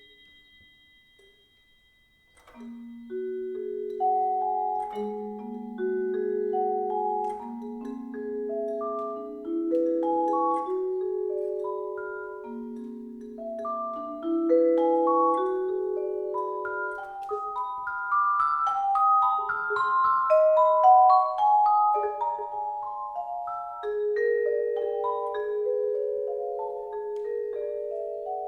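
Two marimbas and a vibraphone playing slow, overlapping sustained notes in a contemporary percussion trio piece. The notes enter about two and a half seconds in, after a high ringing tone fades out, and grow denser and higher toward the middle.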